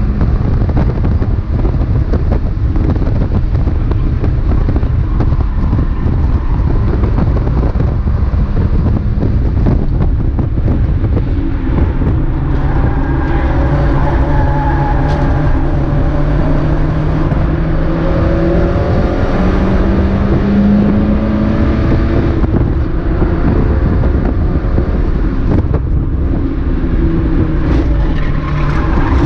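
Mazda MX-5 race car engine running hard at racing speed under heavy wind and road noise. About a third of the way in, the engine notes start rising and falling in pitch through to the end.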